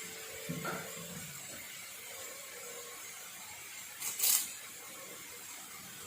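Crushed onion, ginger and garlic frying in hot coconut oil in a pan, sizzling steadily, with a brief louder burst of sizzle about four seconds in.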